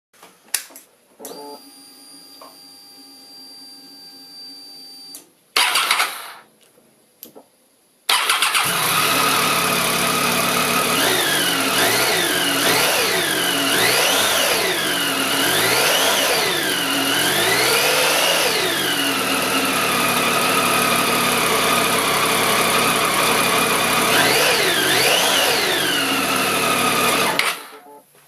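Triumph Tiger 800 inline three-cylinder engine starting: a few seconds of steady whine and a brief loud burst, then the engine catches about eight seconds in and runs with a series of revs rising and falling, before being switched off near the end.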